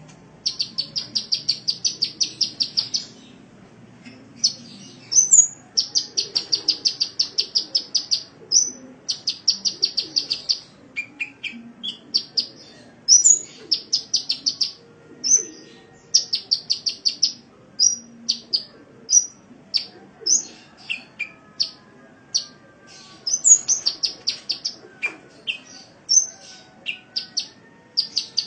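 Sunbird song: fast trills of high, evenly spaced notes in runs of a second or two, broken by short, sharp chirps and single call notes.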